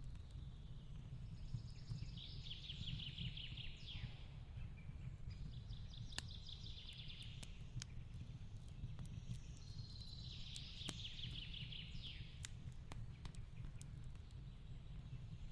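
Fireplace crackling with scattered sharp pops over a low steady rumble, while a small bird sings three fast trilled phrases in the background.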